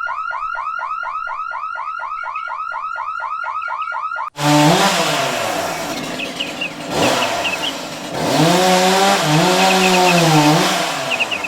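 Car alarm siren repeating a fast rising whoop, about five sweeps a second, for about four seconds. It then cuts to a louder, noisy stretch with low tones bending up and down and a few faint high chirps.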